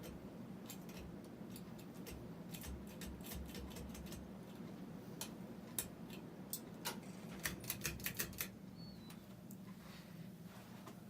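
Tatung spinner ceiling fan running with a steady low motor hum. Irregular sharp clicks sound over it, bunching into a quick run past the middle.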